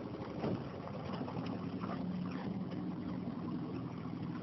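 Outboard motor of a small coaching launch running steadily at low speed, a constant low hum over water and wind noise.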